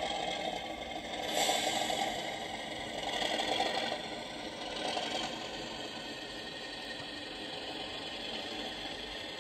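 Model Class 37 diesel locomotive's sound decoder playing its diesel engine running sound through the model's small speaker. There are a few swells in the first five seconds, then it runs steady. The sound runs only because it was switched on with function 1 once the engine was running; the decoder's start-up sequence is faulty.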